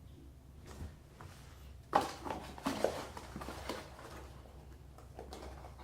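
Handling noises from faucet parts and their packaging: a sharp knock about two seconds in, followed by a couple of seconds of scattered clicks and rustling, then quieter fiddling over a low steady hum.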